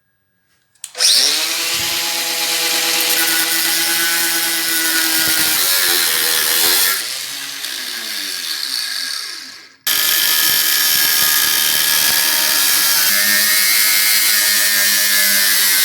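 An electric power tool starts and runs loudly at a steady pitch with a strong hiss of work. About seven seconds in it eases off and wavers, then it stops abruptly just before ten seconds. Straight away it is running again at full level.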